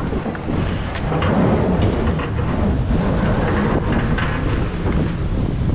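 Jet ski engine running, its low rumble mixed with water splashing and wind buffeting the microphone.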